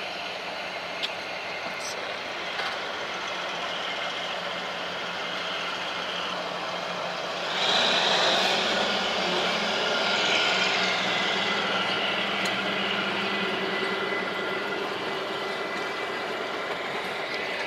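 Kalka–Shimla narrow-gauge train running along the track, heard from an open coach window: a steady rumble and rattle that gets louder about seven or eight seconds in and stays louder for a few seconds, with a faint steady high tone over it.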